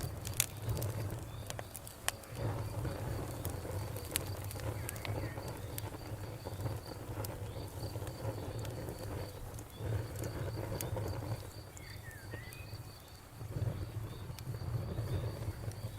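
Campfire crackling with sharp irregular pops over a low rumble that swells and fades, while a cricket chirps in a steady, even pulse.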